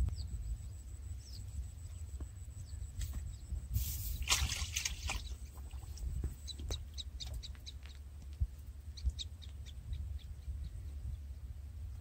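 Small birds chirping in short, scattered calls over a steady low wind rumble on the microphone, with one brief rushing noise about four seconds in.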